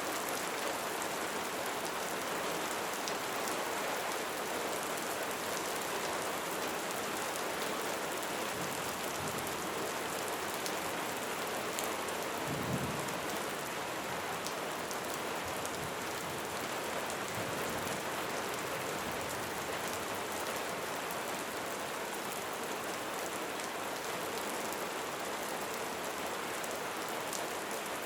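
Steady light rain falling, an even hiss of raindrops on surfaces. There is a brief low thump about halfway through.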